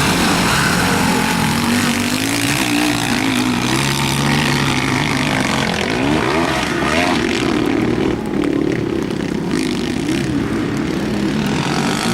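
Several motocross bikes racing on the track, their engines revving up and dropping back repeatedly as they accelerate and shift.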